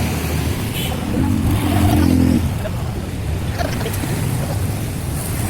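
Big Bird tour bus engine running with a steady low rumble. It swells into a louder, even drone from about a second in until near the middle, then settles back.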